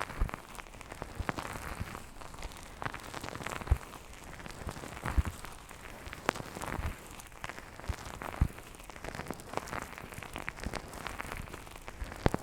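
Close-up ASMR ear massage: fingers rubbing and touching the microphone's ears, a dense, irregular run of small crackles with a few soft taps.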